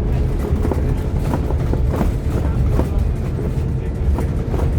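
Scania K230UB OmniLink single-deck bus heard from inside while on the move: its diesel engine drones steadily with a steady mid-pitched tone above it, and small rattles and clicks come from the bodywork and fittings.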